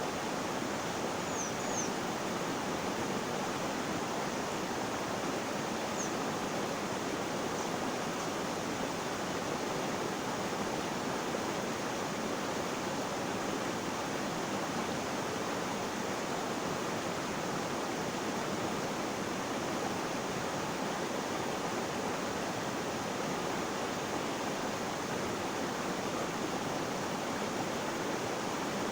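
Flowing water making a steady, even rush with no change in level. A few faint, short high chirps come through in the first eight seconds or so.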